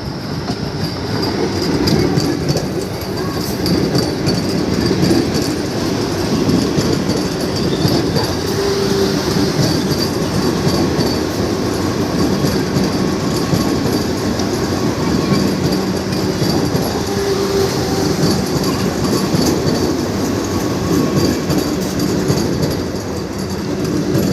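Vande Bharat Express train running on the rails: a steady loud rumble with rapid clicks of the wheels over rail joints and a thin, high, steady squeal above it.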